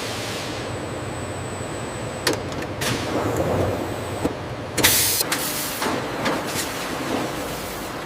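Steady mechanical noise with several sharp knocks, the loudest a short burst of noise about five seconds in.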